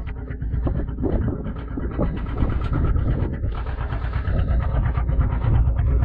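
Steady low rumble of the fishing boat's engine, with scattered small knocks over it.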